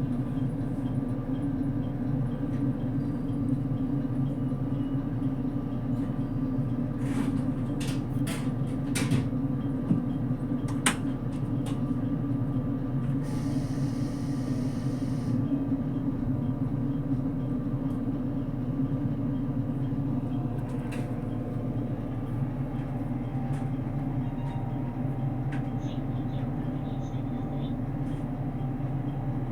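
Steady low hum and rumble inside a JR Kyushu 787 series limited express car, with a few sharp clicks and a short hiss about halfway through.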